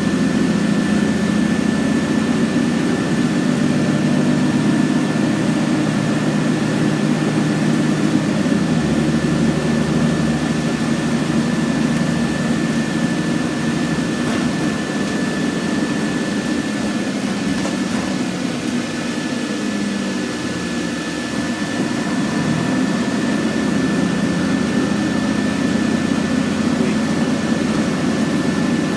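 Scania N113CRB bus's diesel engine running, a steady low drone with a thin, constant high whine above it. The drone's pitch shifts about a third of the way in, and it eases slightly a little past the middle before picking up again.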